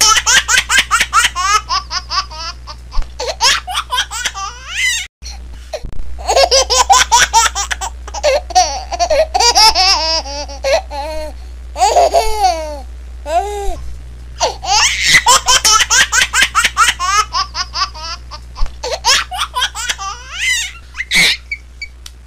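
Laughing ringtone: high-pitched laughter in long runs of rapid short pulses, over a steady low hum, with an abrupt break for an instant about five seconds in.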